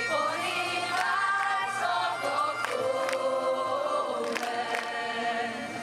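Highland bagpipes playing a tune of held, shifting notes over their steady drone, with drum strikes.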